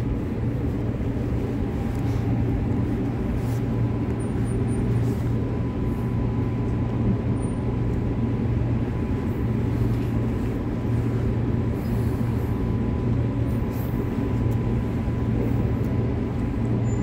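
Interior of a Transperth B-series electric multiple-unit train running along the line: a steady low rumble and hum with a faint constant tone, heard from inside the carriage.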